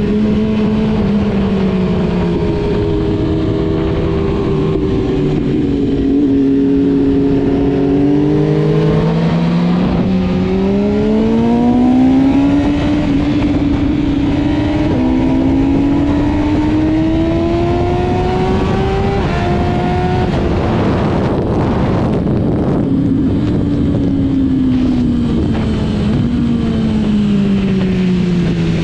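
Sport motorcycle engine at track speed: its note drops in steps as it slows, climbs through two gear changes under hard acceleration, then falls away steadily in the last part as it comes off the throttle, under constant wind rush.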